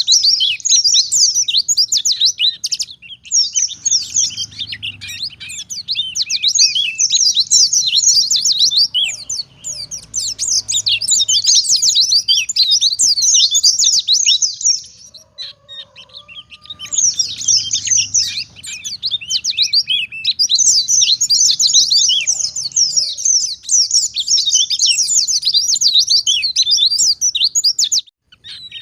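White-eye (pleci) singing a long, fast, high-pitched twittering song of rapid chirps, in long unbroken phrases with short pauses about three seconds in, around the middle and near the end.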